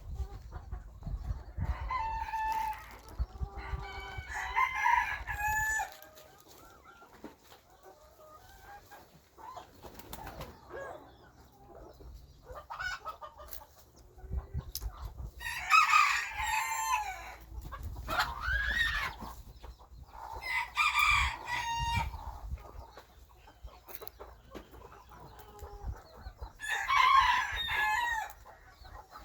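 Bantam roosters crowing again and again, each crow lasting a couple of seconds, with quieter gaps between.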